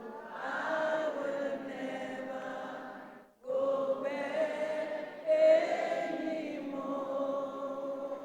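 Church congregation singing a slow chorus together, holding long notes, with a brief break about three seconds in.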